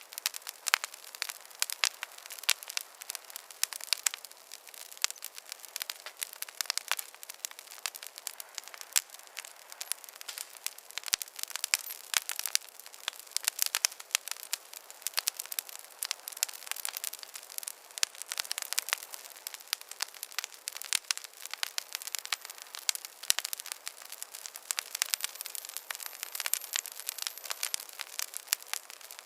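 Wood fire crackling: a steady stream of small sharp pops and snaps over a soft hiss.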